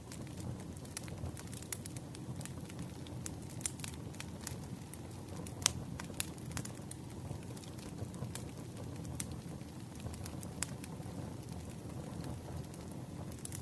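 Campfire crackling: a steady low rumble of burning wood with frequent irregular sharp pops, one louder pop a little before the middle.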